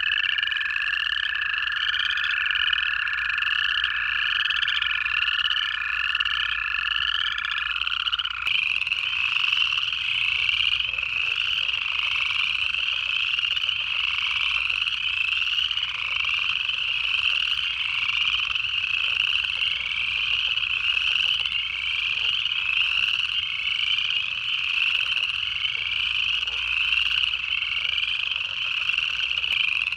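Dense chorus of upland chorus frogs, rising trills repeated over and over without a break. Two long, even-pitched American toad trills run under it and stop about eight seconds in.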